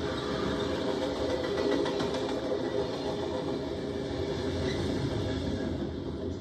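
Passenger train rolling past: the coaches' wheels running on the rails, with the diesel locomotive at the rear of the train going by about four seconds in.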